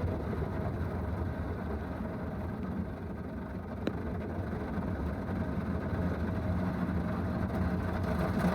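Steady low mechanical rumble of an automatic car wash heard from inside the car's cabin, with a single sharp click about four seconds in.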